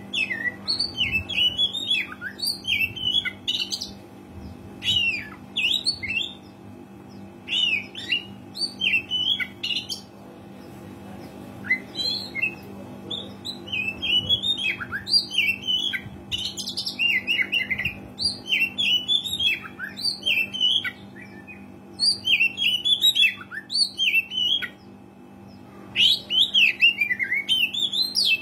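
Oriental magpie-robin (kacer) in full song: fast, varied phrases of chirps, whistles and harsh notes, separated by brief pauses, over a faint steady low hum.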